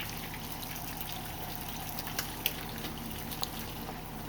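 Pot of sinigang fish soup bubbling steadily at a boil, with a few light clicks.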